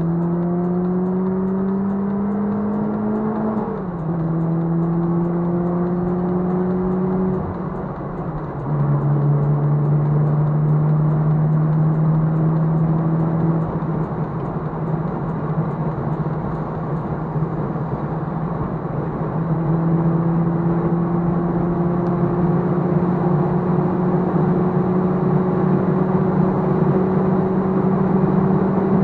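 VW Polo G40's supercharged 1272cc four-cylinder engine heard from inside the cabin under hard acceleration. Its pitch rises and drops at two upshifts in the first eight seconds, then holds high and steady as speed builds, over steady wind and tyre noise.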